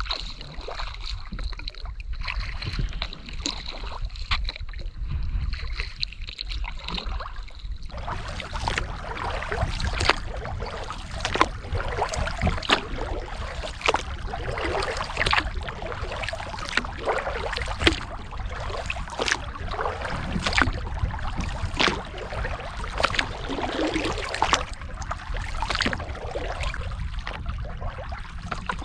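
Kayak paddle strokes: water splashing and dripping off the blades in an irregular run, starting about a third of the way in, over a steady low rumble. A thin steady high tone is heard before the strokes start.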